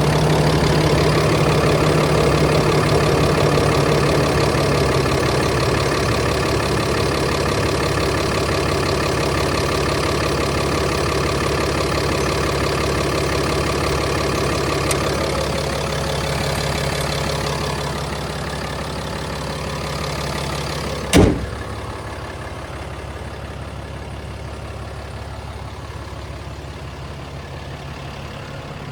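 2018 Ram 3500 heavy-duty pickup's engine idling steadily. A single sharp thump about two-thirds of the way through, after which the idle sounds quieter and duller.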